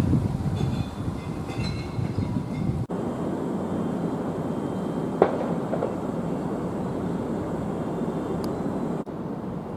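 Nagano Electric Railway 1000 series electric train moving through the station: a steady rumble of wheels and running gear, with faint high whines in the first few seconds and a single sharp knock about five seconds in.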